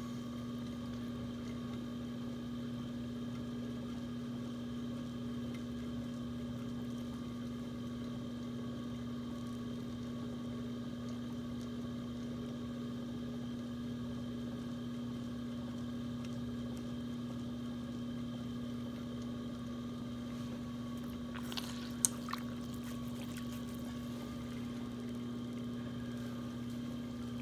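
Electric potter's wheel running at a steady speed: an even, constant motor hum. A short sharp click near the end.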